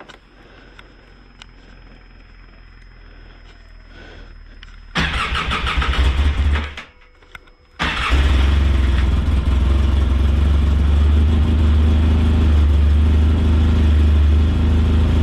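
Cold start of an old plow vehicle's engine: a first try about five seconds in runs for over a second and then stops, and a second try about three seconds later catches, and the engine settles into a steady run.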